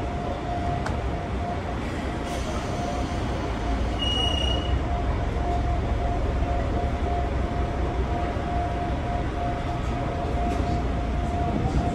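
Gakunan Railway electric train running, heard from inside the passenger car: a steady rumble of wheels on the track with a constant hum, and a brief high tone about four seconds in.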